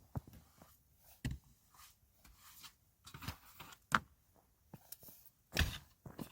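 Scattered rustles and short knocks of gear being handled, several separate sounds with the sharpest knock about four seconds in and a longer rustle soon after.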